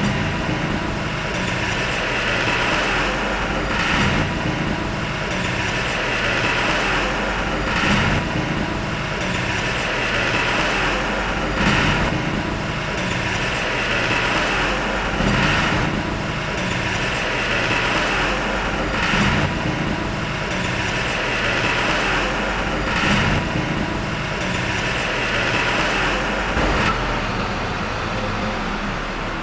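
Heavy earthmoving machinery's diesel engine running steadily under work, with a brief surge repeating about every four seconds.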